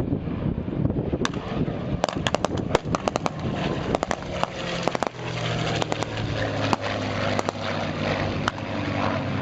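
Wind buffeting the microphone, then a piston-engined warbird's engine droning steadily from about five seconds in, with many sharp cracks scattered through.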